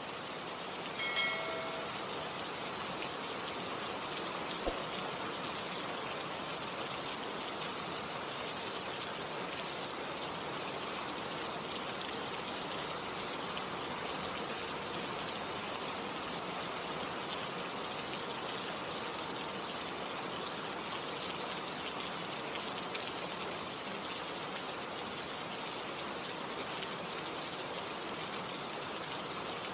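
Steady rain falling, an even hiss of drops throughout. About a second in, a brief pitched note with overtones sounds over it.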